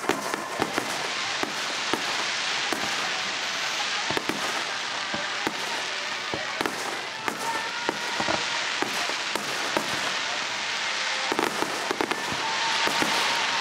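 Fireworks display: a dense, continuous crackle of many small pops, with sharper bangs scattered throughout, swelling louder near the end.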